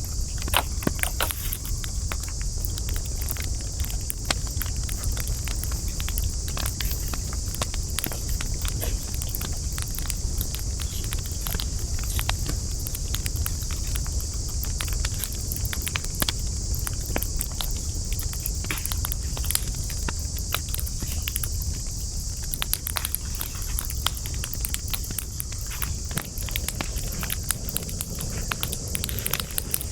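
Wood campfire crackling, with frequent sharp irregular pops and snaps over a steady low rumble of the flames. A steady high-pitched hiss runs underneath.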